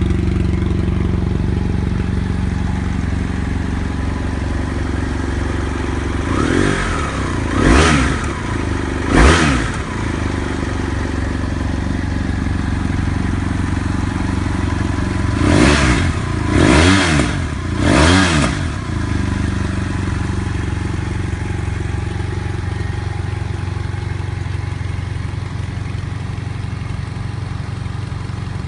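BMW F 800 GS parallel-twin engine, original exhaust, idling steadily, with three short throttle blips about six to ten seconds in and three more about fifteen to eighteen seconds in, each revving up and dropping back to idle.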